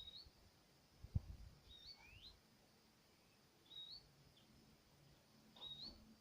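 Faint, short, high chirps from a small songbird, one roughly every two seconds, with one note sliding upward just after the two-second mark. A single sharp knock comes about a second in.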